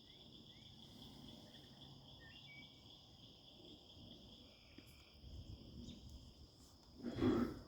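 Crickets trilling steadily in an evening insect chorus, with a few short high chirps over it. A brief louder sound comes near the end.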